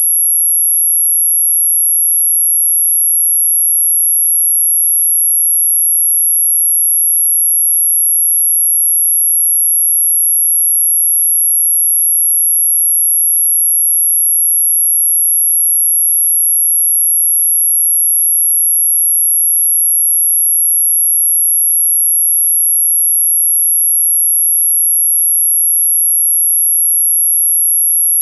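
A single steady, very high-pitched electronic sine tone, unchanging and loud, of the kind played as an anti-mosquito repellent sound.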